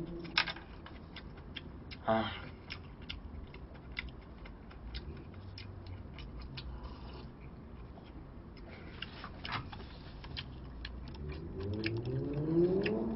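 Eating sounds: a man chewing food, with scattered small clicks and taps of chopsticks against a plastic takeout container.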